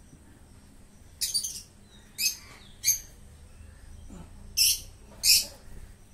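A bird calling: five short, harsh chirps at uneven intervals over a faint steady background.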